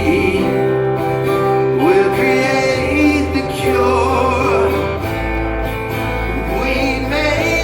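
Live acoustic rock band performance: singing over strummed acoustic guitar with sustained low bass notes.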